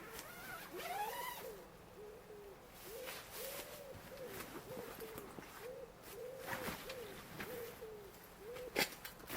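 A bird calling: a rising call, then a steady series of about a dozen short, low, arched notes. Two sharp knocks come near the end.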